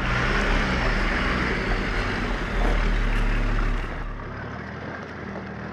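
Nissan Patrol engine running hard at high revs under load as it powers up over a rock obstacle. About four seconds in it cuts off abruptly, leaving a quieter engine idling steadily.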